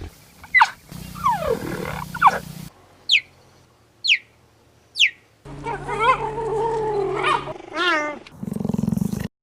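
Cheetah calling: a string of gliding calls, then three short high chirps, each falling in pitch, about a second apart, followed by longer pitched calls and a low rumble near the end.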